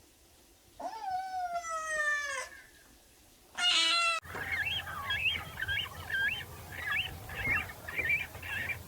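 Animal calls: a long pitched cry falling in pitch, a short high call, then a rapid run of high chirps.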